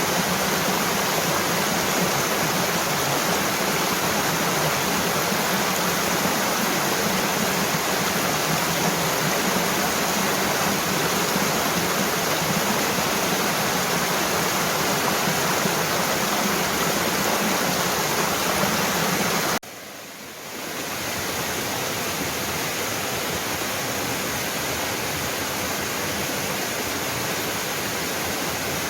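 Mountain waterfall with a steady rush of falling water. About two-thirds through, the sound drops out for about a second, then comes back a little quieter.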